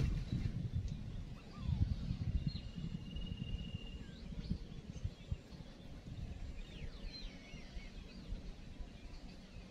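Faint bird calls over a low, irregular rumble: one held whistle about two and a half seconds in, then a few short swooping whistles near the end.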